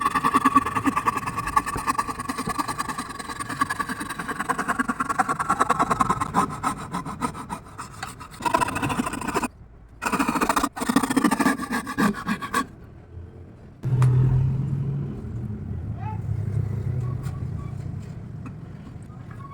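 Scroll saw blade cutting wood with a fast, rapid rasping stroke, broken twice by short pauses. About two-thirds of the way in the cutting gives way to a lower steady hum.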